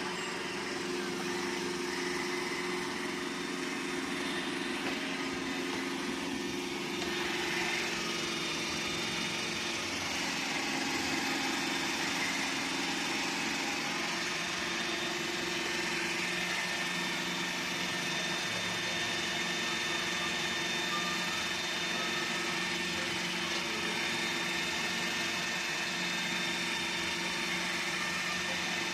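Robot vacuum cleaner running steadily: an even motor hum with a faint high whine.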